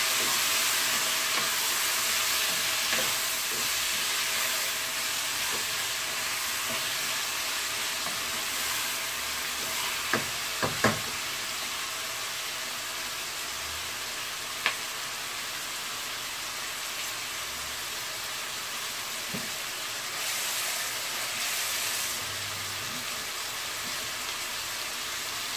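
Drumstick pieces, tomato, onion and green chillies sizzling steadily in oil in a pan, with a few sharp clicks partway through.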